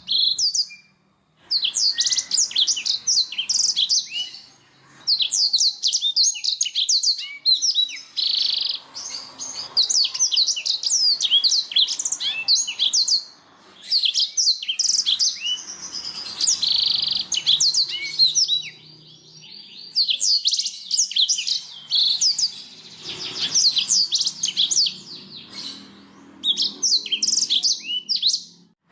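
Domestic canary singing: long runs of fast, high chirps and rolling trills, broken by a few brief pauses.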